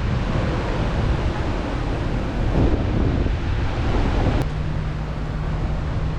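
Wind buffeting the microphone over the wash of waves, in gusty low rumbles. About four seconds in the sound changes abruptly, and a steady low hum runs under the wind.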